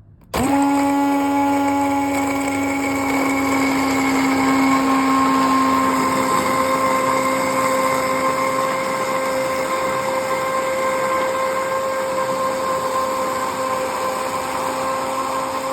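Electric hand blender switching on and running steadily in hot water mixed with coffee powder and ground dry coconut, a constant motor whine.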